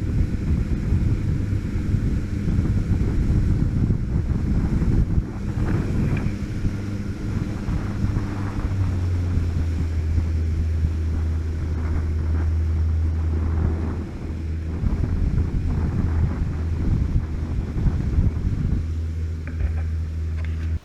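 Small boat running under power, its outboard motor giving a steady low hum, with heavy wind noise buffeting the microphone and water rushing past the hull. About nine seconds in, the motor's hum settles to one even, steadier pitch.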